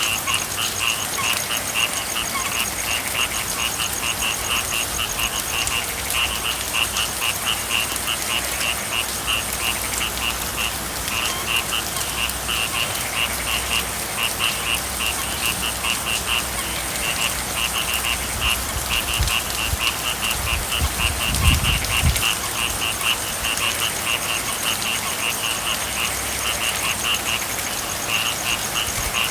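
A chorus of frogs calling in rapid, rhythmic pulsed croaks over a steady hiss of rain. A brief low rumble comes about three quarters of the way through.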